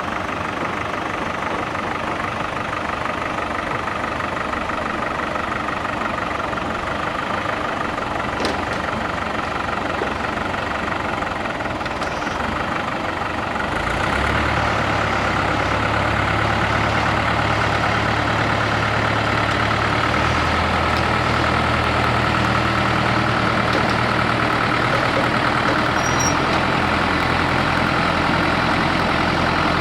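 Güldner G45 tractor's diesel engine running steadily. About halfway through it gets louder, with a deeper drone added.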